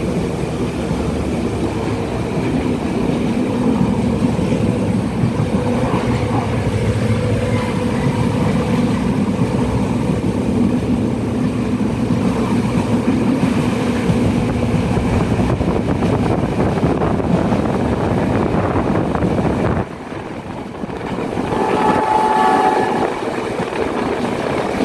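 Diesel multiple unit passenger train running at speed, heard from inside the coach: a steady rumble of wheels and engine with a low hum. About twenty seconds in it cuts to a quieter stretch that builds up again, with a brief high tone near the end.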